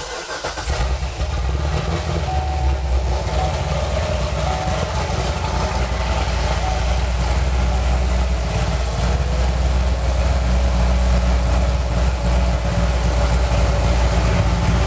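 A 2006 Corvette C6's 6.0-litre LS2 V8 firing up at the start and then idling steadily at about 850 rpm.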